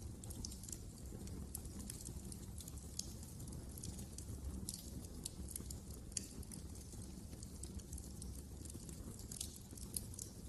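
Wood fire burning in a fireplace: irregular crackling and small pops over a low, steady rumble of flame, with a few sharper pops along the way.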